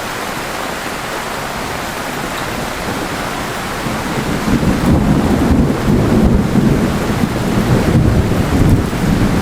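Heavy rain falling steadily, then about halfway through a long, loud low rumble of thunder rolls in under the rain.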